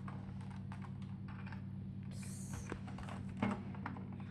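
Plastic Lego pieces clicking and knocking irregularly as hands work at prising the roof off a Lego spaceship model, with a short scrape about two seconds in and a sharper knock near the end, over a steady low hum.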